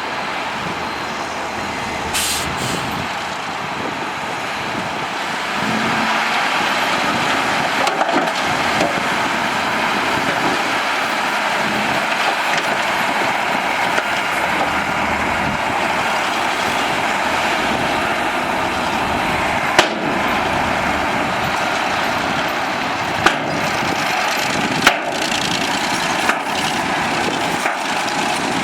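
Heavy diesel earthmoving machinery working with a steady, loud engine noise that gets a little louder about six seconds in. A few sharp knocks or clanks come through in the second half.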